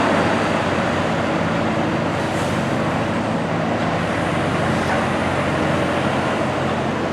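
A heavy vehicle's engine running steadily with road traffic noise.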